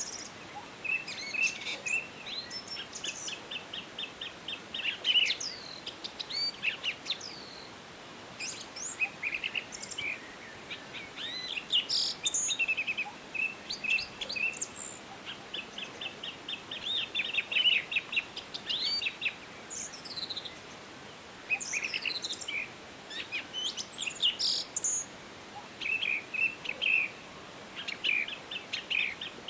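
Forest birds singing and calling together: rapid trills of repeated notes and short high chirps from several birds, overlapping, over a faint steady background hiss.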